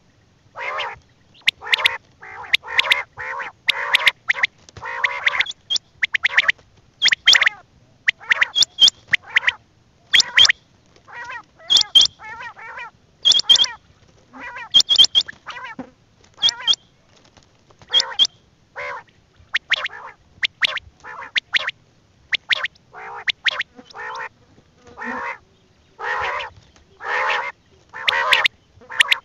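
Quail calling repeatedly: a long series of short calls about one or two a second, some nasal and some sharp and high.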